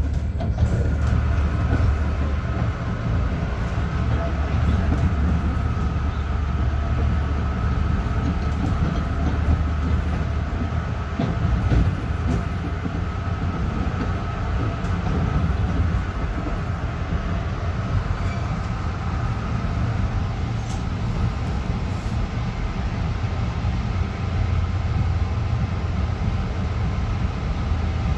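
LIRR M3 electric train running steadily, heard from inside the car: a continuous low rumble with a steady high whine over it and a few faint clicks.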